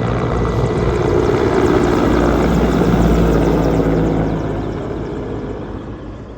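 Helicopter running loud, its rotor and engine filling the air, then growing steadily fainter over the last two seconds or so.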